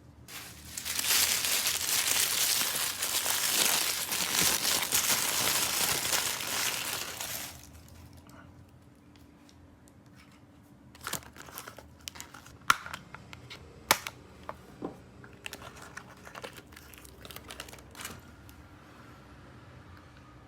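Plastic toy packaging crinkling and tearing for about six seconds as it is opened, then a scatter of light clicks and taps as small parts are handled.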